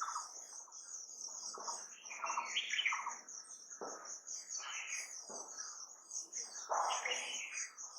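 Several wild birds chirping and calling, their calls overlapping, over a steady, fast-pulsing high-pitched trill.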